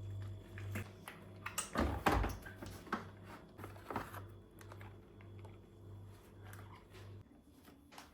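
Light clicks, taps and knocks of small objects being handled, busiest about two and four seconds in, over a low pulsing hum that stops near the end.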